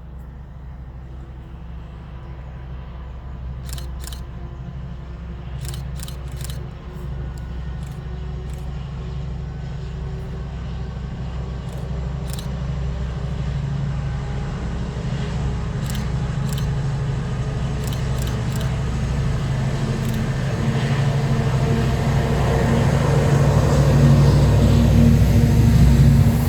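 A train approaching: a low, steady engine hum that grows steadily louder, with a few faint high clicks along the way.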